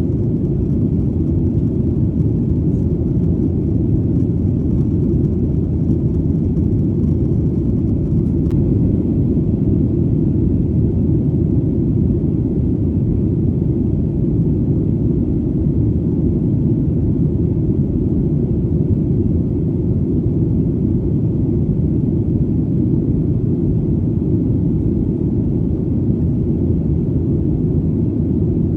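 Steady, deep rumble of an airplane in flight: engine and airflow drone heard as a low, even noise that does not change.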